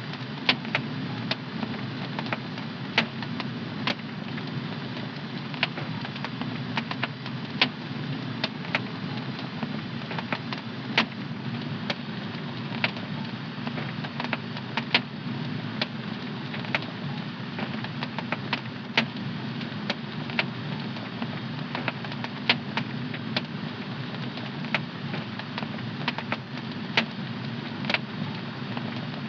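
Fire in a home fireplace crackling: irregular sharp pops and snaps over a steady low rush of the flames.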